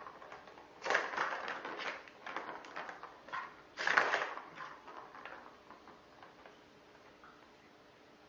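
Rustling, crackling noises of something being handled or crushed, with two louder spells about one second and four seconds in and a few scattered clicks between.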